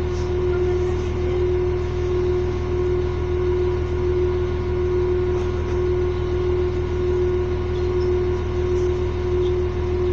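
Steady hum of a standing train, with one strong held tone over a low rumble, unchanging throughout.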